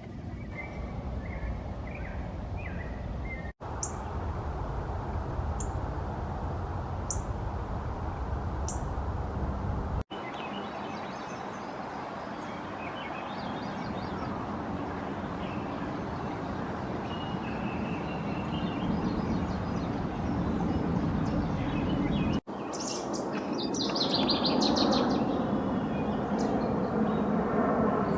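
Wild songbirds singing and calling over a steady background hiss and rumble. Short, sharp high notes repeat about every second and a half early on, and a quick, rapid trill comes near the end.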